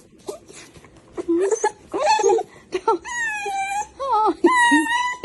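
A dog whining: short yelps at first, then long, high, wavering cries near the end, each held about a second.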